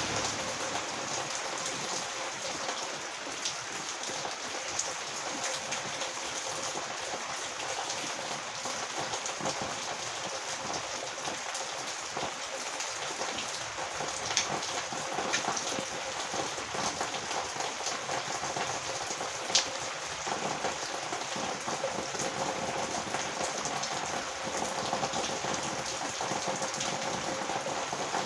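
Heavy rain falling steadily, an even hiss of rain with a few sharp drop ticks standing out now and then, one clearest about two-thirds of the way through.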